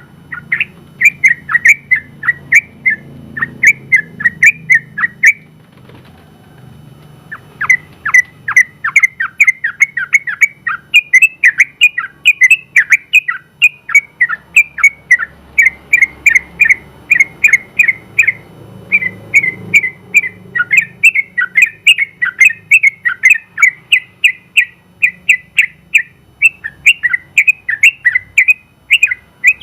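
Yellow-vented bulbul (trucukan) singing a long rapid run of short chirping notes, several a second, with one pause of about two seconds partway through.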